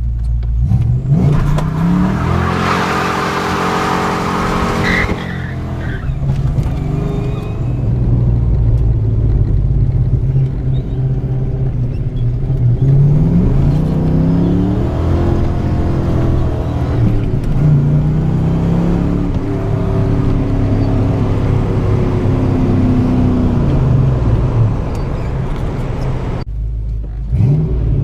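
A 1987 Ford Mustang GT's 5.0-litre V8 driven hard, revs climbing and falling several times. A rush of noise sits over the engine from about two to five seconds in.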